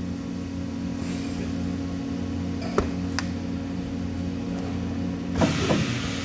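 Steady low electrical hum of workshop machinery, with two sharp metallic clicks a few seconds in and a short hiss about five and a half seconds in.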